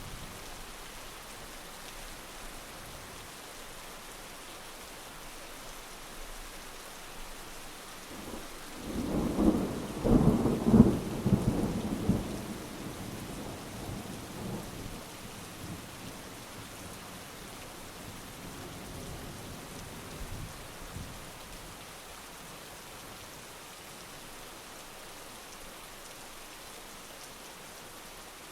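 Steady heavy rain with a peal of thunder about nine seconds in: several sharp cracks and a rumble lasting a few seconds, then fading back under the rain, with a faint distant rumble later.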